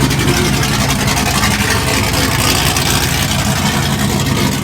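Loud, steady running of a race vehicle's engine at close range, with a noisy hiss over the low engine note.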